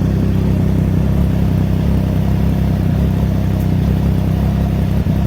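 Triumph Trident 660's three-cylinder engine idling steadily through a full aftermarket exhaust with a Black Knight muffler, a deep bass sound. The engine is warmed up and its idle has settled down.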